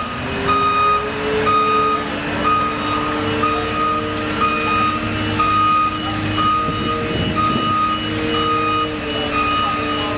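Reversing alarm on a heavy construction vehicle beeping steadily about once a second, with the vehicle's diesel engine running underneath.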